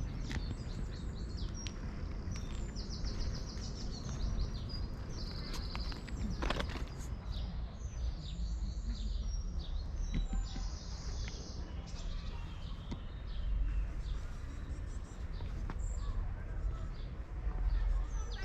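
Small songbirds singing and twittering, with several quick trills of rapidly repeated notes, over a steady low rumble and a few sharp clicks.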